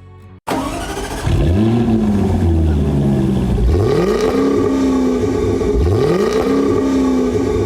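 Jaguar F-Type SVR's 5.0-litre supercharged V8 under hard throttle, its revs climbing in three rising sweeps that each level off and drop back.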